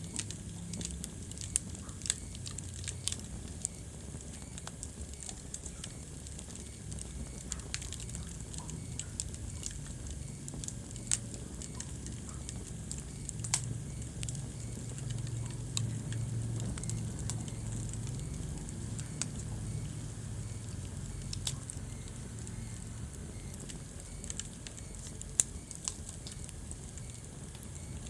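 Wood fire burning in a fireplace: irregular sharp crackles and pops over a steady low rumble of the flames, with one louder pop about three-quarters of the way through.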